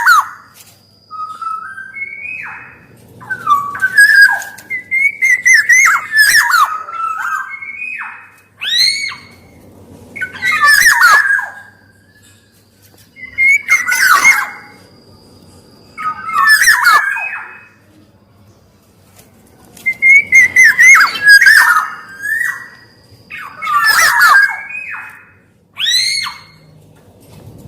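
Black-naped oriole (kepodang) singing: short phrases of loud, sweeping whistled notes, one about every two to three seconds.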